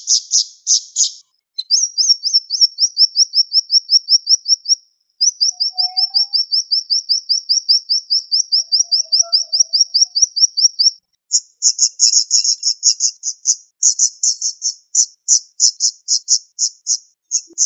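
Siri-siri songbird singing rapid, high-pitched repeated notes. First comes a long run of quick rising slurs, about five a second, with a brief pause. About eleven seconds in, it switches to faster, choppier chattering bursts.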